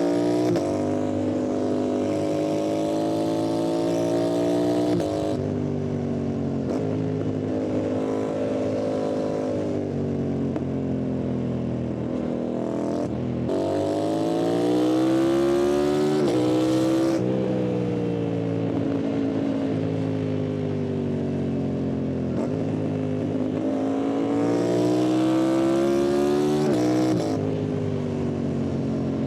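Yamaha MT-07's parallel-twin engine through its exhaust, accelerating hard again and again: the pitch climbs under throttle, then drops at each gear change or roll-off every few seconds.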